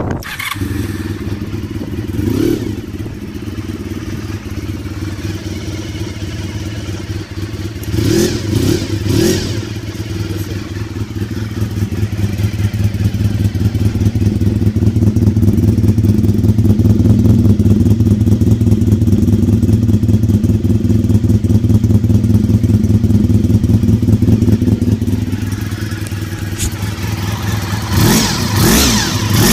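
Honda RVF400's V4 engine running through its exhaust: a steady idle with short throttle blips about two and a half seconds in, around eight to nine seconds, and again near the end, and a louder steady stretch in the middle.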